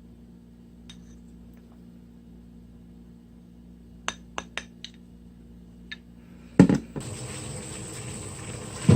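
Utensils clinking against a dish five times in quick succession, each a short ringing click. About six and a half seconds in comes a heavier knock, followed by a steady rushing noise.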